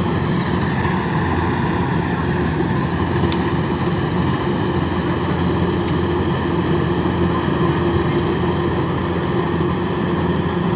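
A machine's engine running steadily at constant speed, an even drone with no change in pitch or load.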